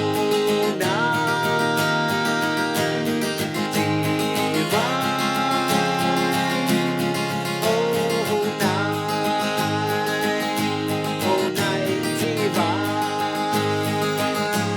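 Seagull S6 mahogany acoustic guitar strummed in a steady instrumental passage. Over it, a melody slides up into long held notes about every four seconds.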